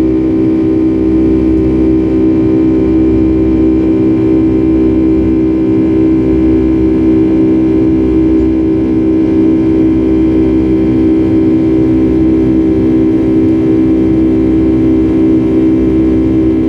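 Boeing 757-300's jet engines heard inside the cabin: a loud, steady drone with a strong low hum, unchanging in pitch.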